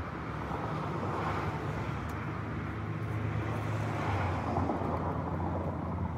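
Vehicle engine idling steadily: a low, even hum.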